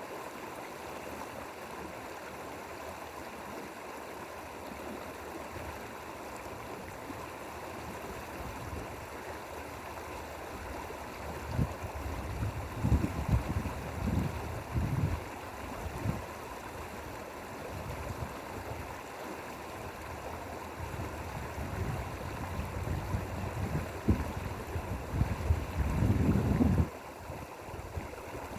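Valley stream flowing with a steady rush of water. About 11 seconds in, and again from about 21 seconds, spells of low rumbling come and go over it; the second cuts off suddenly near the end.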